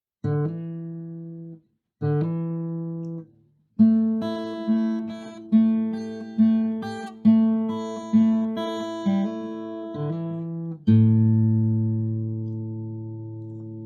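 Guitar music: two chords, a run of evenly paced plucked notes, then a last chord left ringing and slowly fading.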